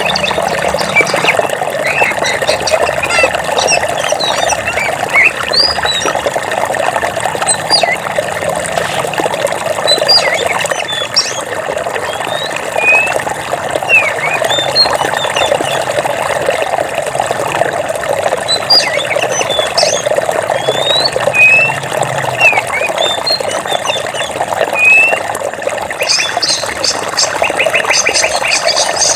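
Running water flowing steadily, with birds chirping in short scattered calls and whistles over it. Near the end a fast repeated trill comes in.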